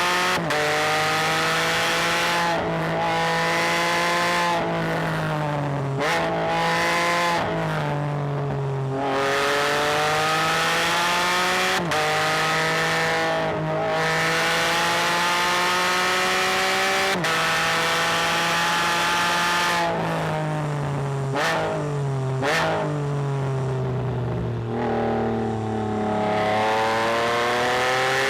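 Can-Am Spyder F3-S with a Rotax 1330 three-cylinder engine and a catalytic-converter-delete exhaust, accelerating hard through the gears: the engine note repeatedly climbs in pitch and drops sharply at each upshift. Around twenty-four seconds in it winds down, then accelerates again near the end.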